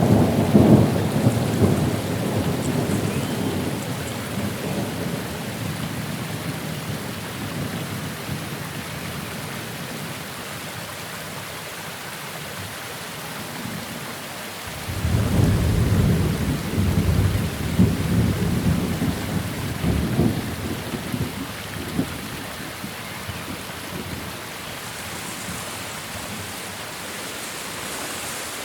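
Steady rain with two rolls of thunder. One is dying away over the first few seconds; the other breaks in suddenly about halfway through and rumbles on for several seconds.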